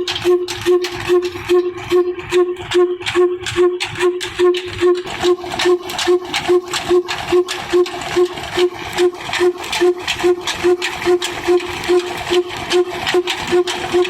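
Old black diesel engine running steadily at slow speed, a regular beat of about two and a half firing pulses a second, each with a hollow, whistling note.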